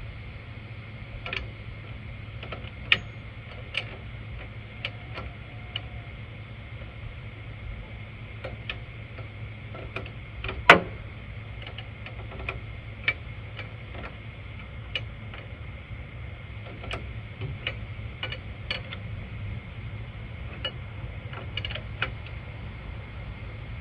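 Hand tools working on a tractor's front-loader control lever linkage during reassembly: scattered, irregular sharp metallic clicks and taps, with one louder knock about ten and a half seconds in, over a steady low hum.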